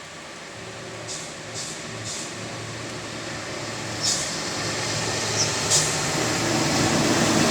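A heavy dump truck's diesel engine running as it approaches, growing steadily louder, over the hiss of heavy rain and tyres on the wet road, with several short sharp hisses.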